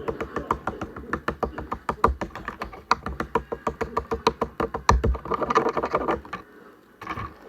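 A rapid, even run of sharp clicks, about six a second, that stops about six seconds in.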